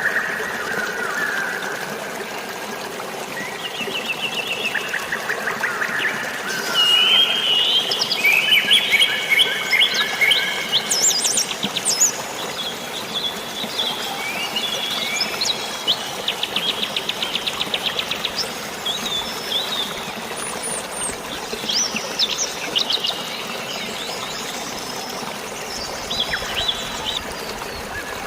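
Several birds chirping and trilling in a forest, busiest partway through, over a steady hiss of rain and flowing water.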